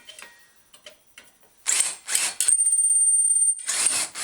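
Power drill drilling out a rivet on a steel bicycle fender stay. After a quiet second or so there is metal clatter, then a steady high whine for about a second, then dense scraping noise as the drilling goes on.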